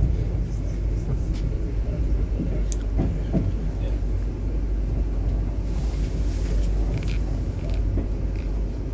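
Electric commuter train running, heard from inside a carriage: a steady low rumble with a few faint clicks and knocks.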